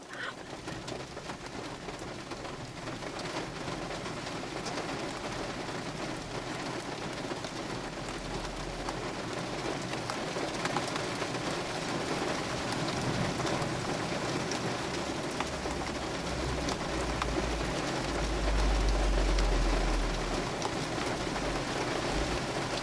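Heavy rain pouring down steadily and growing gradually louder. A deep low rumble swells up about two-thirds of the way through and fades again before the end.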